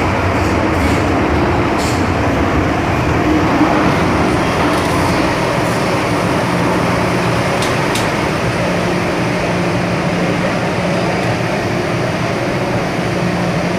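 MTR M-Train electric multiple unit running, heard from on board: a steady rumble of wheels on rail with a faint steady hum.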